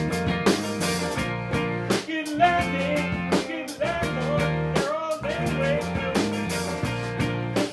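A rock band playing a song live: guitars over a drum kit keeping a steady beat.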